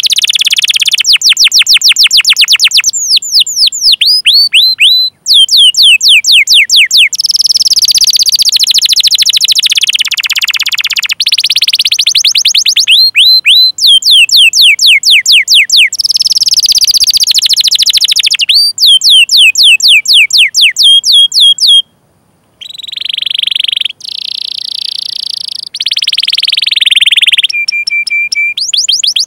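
Domestic canary singing loudly: long series of rapid, repeated downward-sweeping chirps alternating with dense rolling trills, with a short pause about 22 seconds in.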